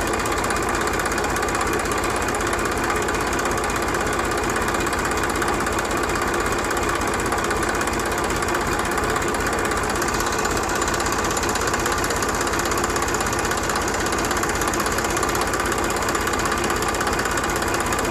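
Small engine of a homemade mini tractor running steadily, with a fast, even knocking beat.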